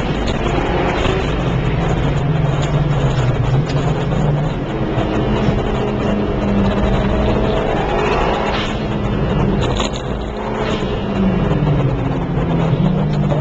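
Track car's engine heard from on board, pulling hard, its pitch rising and dropping as the revs climb and the gears change, over steady road and wind noise. About ten seconds in it briefly quietens as the driver lifts off, then picks up again.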